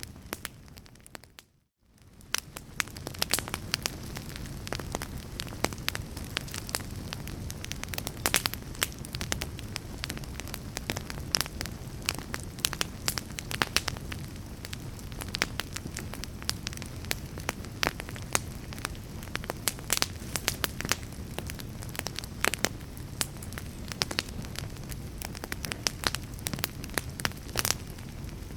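Fire crackling: a steady low rumble of flames with frequent sharp pops and snaps. About a second and a half in, the sound drops briefly to near silence, then fades back in.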